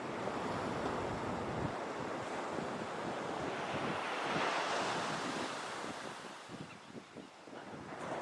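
Ocean surf washing onto the beach, with wind buffeting the microphone. The wash swells about halfway through and eases near the end.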